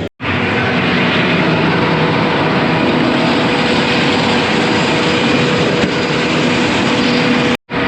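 Farm machinery engine running steadily: a steady rushing noise with a constant hum, breaking off for a moment near the end.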